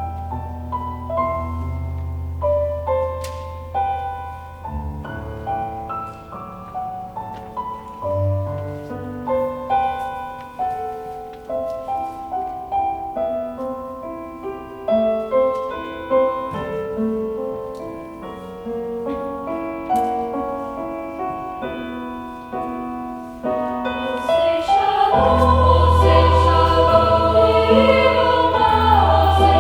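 A choir singing with piano accompaniment. For most of it a flowing line of piano notes carries under quieter singing; about 24 seconds in, the choir swells and sings much louder.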